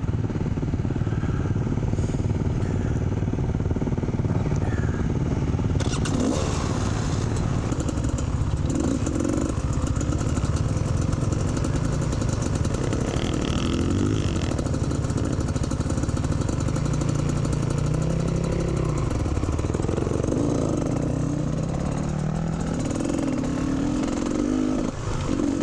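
Dirt bike engine running and being ridden, its revs rising and falling as the throttle opens and closes.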